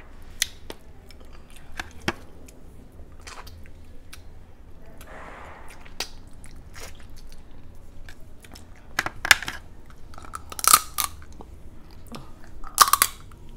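Chewing and crunching into shell-on shrimp and crab, with many small clicks and three loud sharp cracks in the second half.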